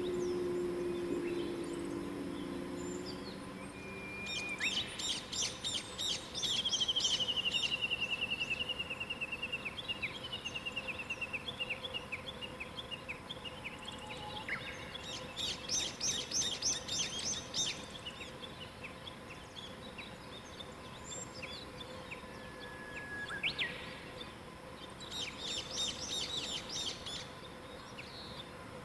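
Wild songbirds singing: three bursts of rapid, high trilled phrases about ten seconds apart, and between the first two a long trill that slides down in pitch. A faint steady hum runs underneath.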